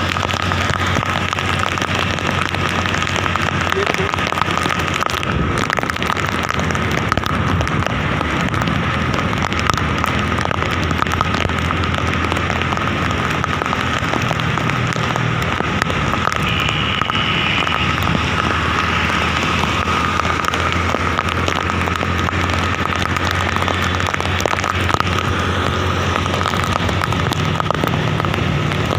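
Heavy monsoon rain falling steadily, with a dense patter of drops striking a surface close by.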